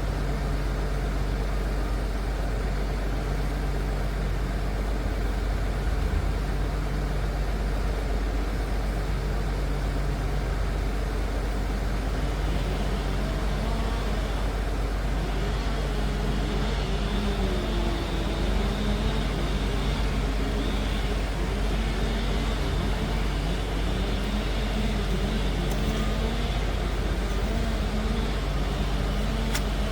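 Liebherr PR 746 crawler dozer's diesel engine running with a steady deep rumble. From about halfway through, its pitch rises and falls as the machine works, with a faint high whine above it.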